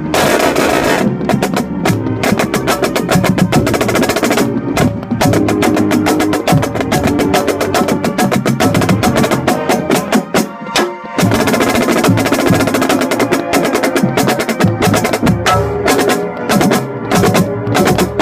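A marching band plays, with a snare drum close to the microphone playing rapid crisp strokes over sustained brass and woodwind chords. The music breaks off briefly about ten seconds in.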